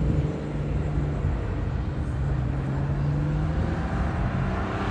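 Car engine running steadily at low revs, with a steady, deep exhaust note.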